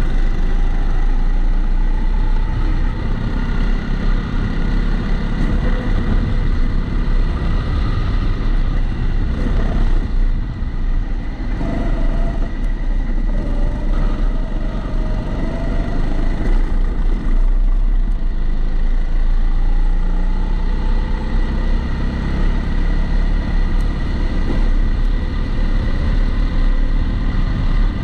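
Rental kart's engine recorded onboard, its pitch rising and falling every few seconds as the kart accelerates and slows through corners. A steady high tone runs over it, which the uploader puts down to the GoPro sitting in a housing.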